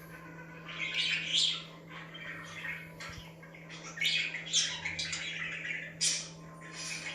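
Budgerigars chirping and chattering in short bursts of scratchy warbling every second or two, over a steady low hum.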